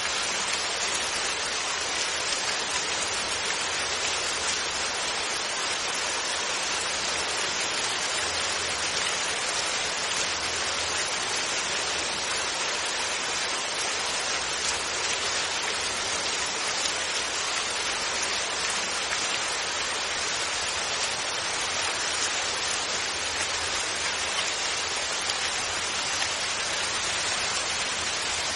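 Steady heavy rain falling, a dense even hiss of drops with no thunder.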